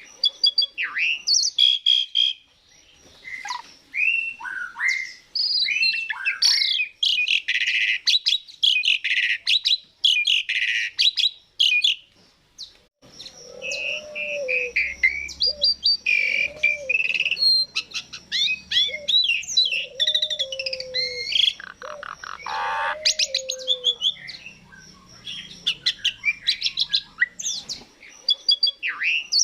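Asian pied starling (jalak suren) singing a long, varied song of chattering, whistled and squeaky notes, with a fast rattle a little after the middle. Lower repeated notes join in for the second half.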